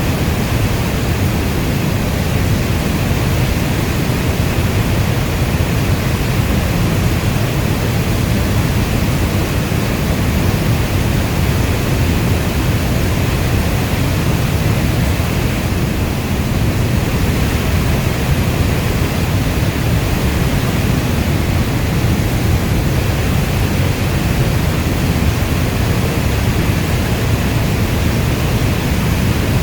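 Steady rainstorm ambience: an even, unbroken wash of rain noise weighted toward a deep low rumble, with no separate drops or events standing out.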